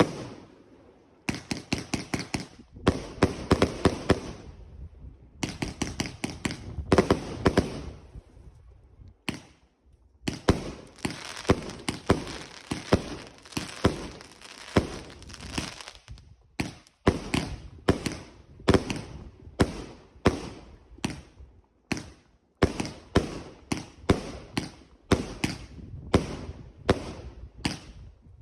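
Fireworks going off: clusters of rapid sharp bangs and crackles, then a steadier run of single bangs at about two a second from a little past halfway.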